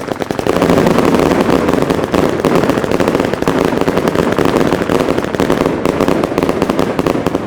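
Argento Rapid Thunder firecracker item going off: a dense, rapid-fire stream of loud bangs, many a second, that ends near the close and leaves fading echoes.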